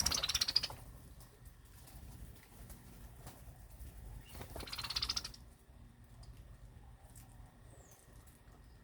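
Small birds chirping: a rapid high trill at the start and another about four and a half seconds in, with a faint short call near the end.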